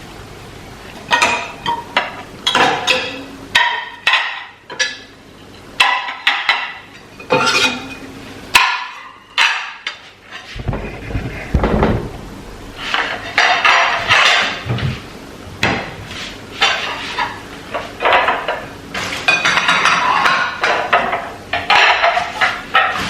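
A run of irregular knocks, clacks and clinks, as of household objects being handled and set down.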